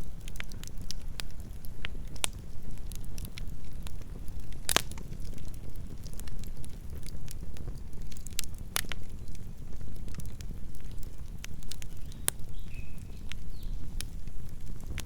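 Campfire of burning wood crackling steadily over a low rumble, with frequent sharp pops and two louder snaps about five and nine seconds in.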